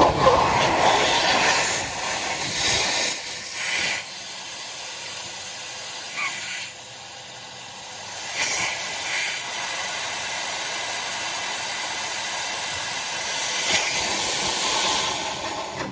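Air being blown through a furnace's condensate drain to clear it: a loud, continuous hiss that surges unevenly several times in the first few seconds, then runs steadier and cuts off suddenly at the end.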